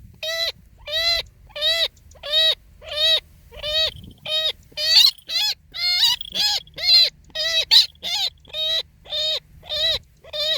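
Repeated calls of the chằng nghịch bird: a short note that rises then falls in pitch, given about twice a second without a break.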